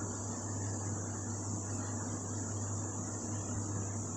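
Steady background noise with no events: a constant high-pitched buzz over a low, even hum.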